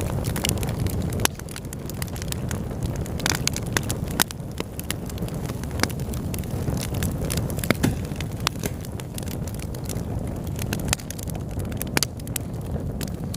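Wood fire burning in a fireplace: irregular sharp crackles and pops, several a second, over a steady low rush of flames.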